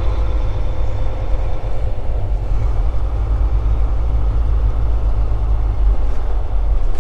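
Semi-truck's diesel engine running at low speed, heard from inside the cab as a steady low rumble.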